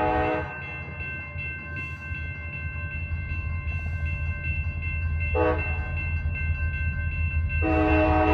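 CSX locomotive running light sounds its horn approaching a grade crossing: a blast ending about half a second in, a short blast a little past five seconds, then a long blast starting near the end. Under the horn, the locomotive's engine rumble grows steadily louder as it nears. A crossing bell rings at an even beat throughout.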